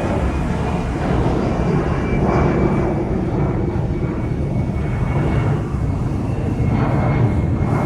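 Jet airliner close by, its engines giving a loud, steady rumble with a faint high whine running through it.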